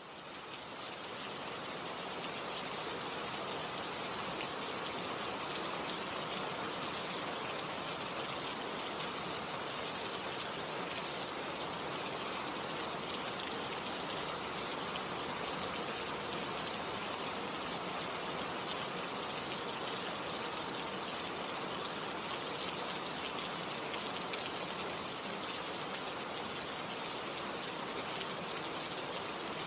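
Steady rain falling, a dense hiss with fine patter of individual drops, fading in over the first couple of seconds.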